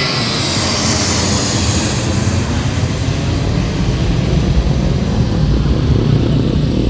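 Airliner's engines at takeoff power, a loud continuous rumble. The high hiss fades over the first couple of seconds while the deep rumble grows stronger.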